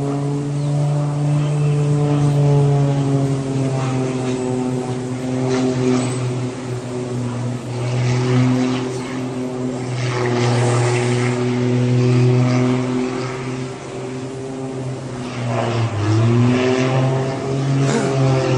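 Propeller aircraft engine running steadily in flight. Its pitch dips briefly and rises again about sixteen seconds in.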